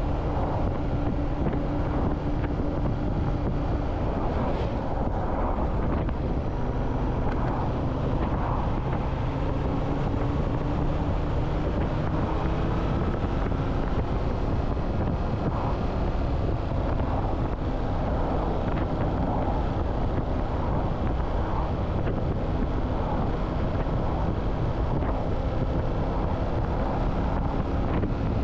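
Motorcycle engine running at speed, its pitch drifting gently up and down, with wind rushing over the microphone.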